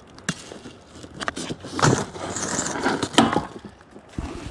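Plastic hive latches being unclipped on an Apimaye hive cover: a series of clicks and knocks with rubbing and handling of the plastic parts, and one loud snap about three seconds in.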